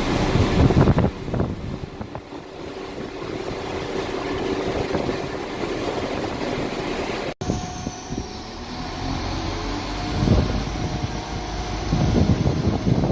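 Passenger train running at a station, its engine humming steadily under wheel and rail noise. The sound drops out for an instant about seven seconds in, at a cut in the recording.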